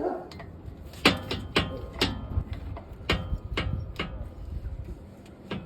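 A hammer strikes metal on a truck brake caliper: about eight sharp blows at uneven intervals, each with a short metallic ring.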